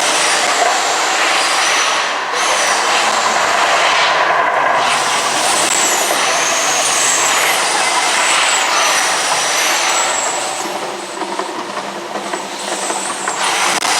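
The Mirage volcano attraction erupting: a loud, steady roaring rush with hiss that starts abruptly and eases a little in the later seconds.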